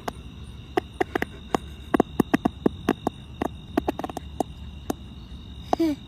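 A quick, irregular series of sharp clicks, about twenty over five seconds, with a short voice-like call near the end.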